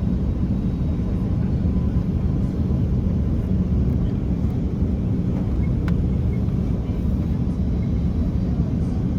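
Steady low rumble of cabin noise inside an Airbus A330-300 airliner, from engine and airflow noise, with a faint click about six seconds in.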